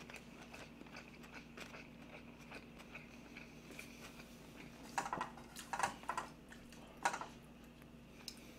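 Quiet chewing of a mouthful of food with the mouth closed, over a faint steady hum. A few short, louder sounds come about five, six and seven seconds in.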